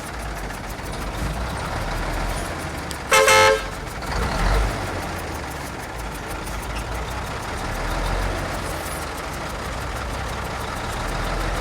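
A motor vehicle's engine running steadily, with one short horn toot about three seconds in that is the loudest sound.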